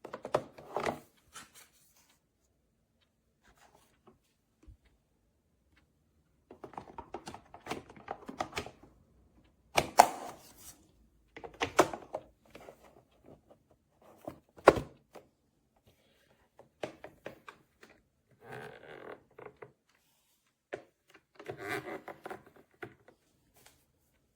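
Hard plastic parts of a Cat Mate C300 automatic pet feeder being handled: irregular clunks, knocks and clatter in bursts with short pauses, the sharpest knocks about ten and fifteen seconds in.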